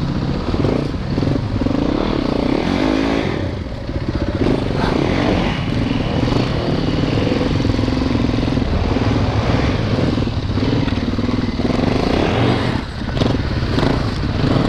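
Four-stroke dirt bike engine revving up and down under load, its pitch rising and falling, with the throttle easing off briefly twice.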